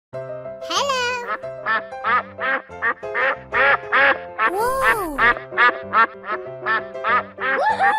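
Cartoon duck quacks repeated quickly in an even rhythm, about three a second, over a bouncy background music track, with a few longer calls that rise and fall in pitch.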